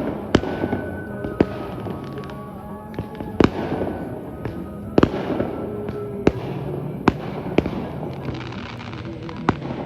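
A series of sharp, irregular bangs or cracks, about a dozen in ten seconds, over a steady background with faint music.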